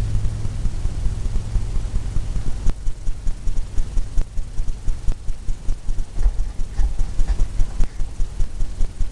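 Paintbrush strokes on canvas, short and repeated at about three to four a second, over a steady low hum.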